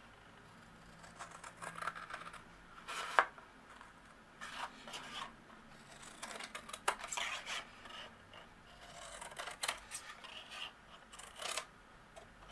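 Scissors cutting cardstock: irregular short snips and rustling of card as tabs are cut and mitered, with a sharper snip about three seconds in.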